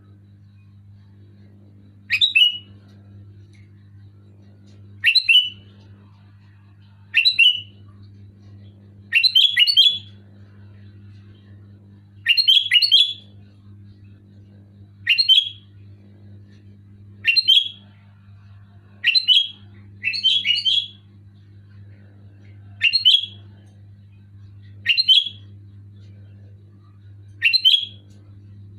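Sooty-headed bulbul (kutilang) calling: short, sharp call phrases repeated about every two seconds, a few of them doubled, over a steady low hum.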